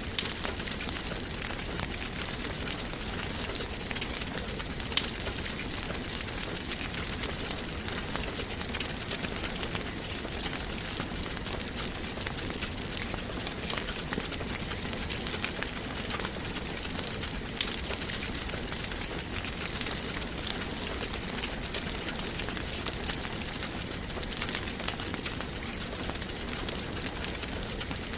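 Wood fire burning in a fireplace: a steady hiss dotted with frequent small crackles and pops, one sharper pop about five seconds in.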